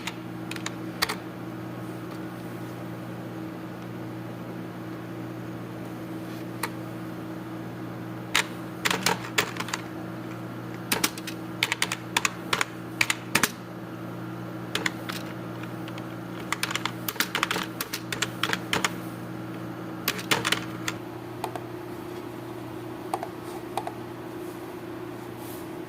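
Computer keyboard being typed on in bursts of rapid keystrokes, separated by pauses of a few seconds, over a steady low hum.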